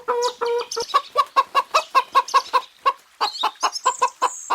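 Chicken clucking: a quick run of short clucks, about five a second, which pauses briefly about three seconds in and then resumes.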